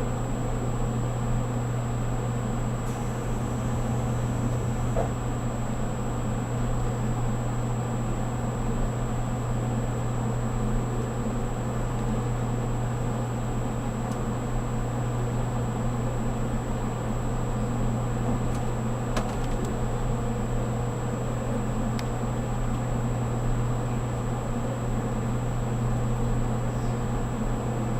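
Steady low hum inside the passenger cabin of a JR Kyushu 783-series express train car, with a thin high whine above it and a few faint ticks.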